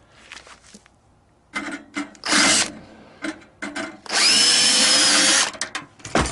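Power drill spinning in two bursts: a short one about two and a half seconds in, then a steady run of about a second and a half with a faint whine. Clicks and knocks of handled metal parts come between them.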